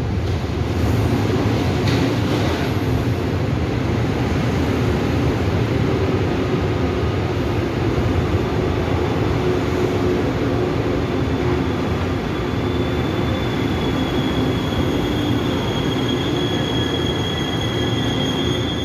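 Taiwan Railway Tze-Chiang express train pulling into the platform, with steady wheel-on-rail running noise. About two-thirds through, a high, steady squeal rises as the train brakes to a stop.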